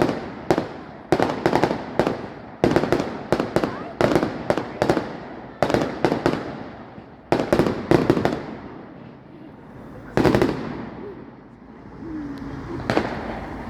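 Fireworks display: a rapid string of sharp shell bursts, each with a trailing echo. The bursts ease off into a lull about two-thirds of the way through, broken by one big bang, then pick up again near the end.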